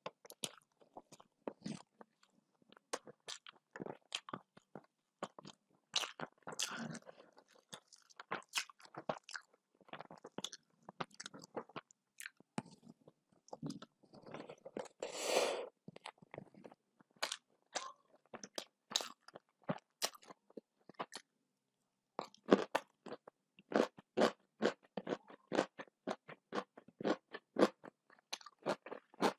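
Chewing and crunching of a mouthful of rice and greens eaten by hand, made of many short, sharp mouth clicks. The crunches grow louder over the last several seconds as a piece of raw red bell pepper is bitten. A longer, noisier sound of about a second comes about halfway through.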